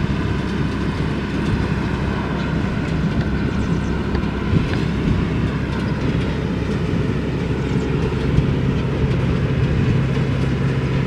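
Tractor engine running steadily under load as it pulls a round baler picking up hay, with the mechanical clatter of the baler mixed in. About eight seconds in, the engine note drops to a lower, steadier pitch.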